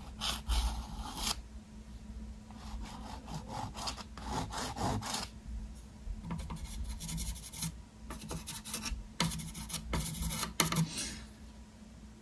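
A painting tool rubbing and scraping over a canvas in a series of short, irregular scratchy strokes as small lines are worked into acrylic paint; the paint is too dry to glide smoothly.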